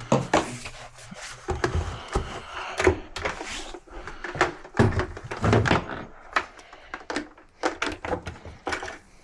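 Irregular knocks, thuds and clattering from parts and tools being handled on an opened clothes dryer, with no motor running.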